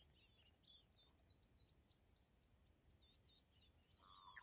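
Faint bird song: two runs of quick, high chirps, each sliding downward, about four a second, over a low background hiss.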